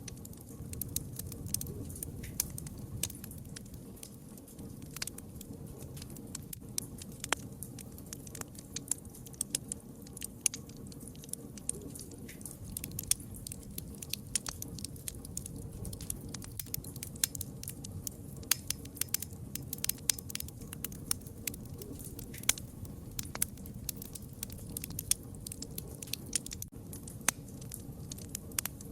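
Wood fire burning: a steady low rumble of flames with frequent irregular sharp crackles and pops from the burning wood.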